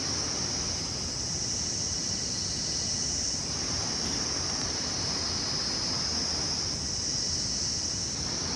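Steady, continuous high-pitched insect chorus, like crickets, over a low, even rumble.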